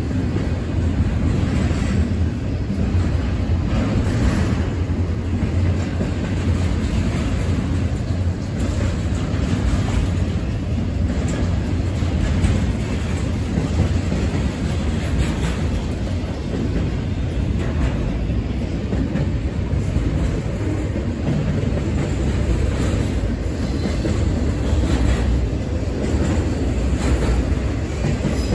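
Intermodal freight train's double-stack container cars and trailer cars rolling past: a steady rumble of steel wheels on the rails, with occasional clacks.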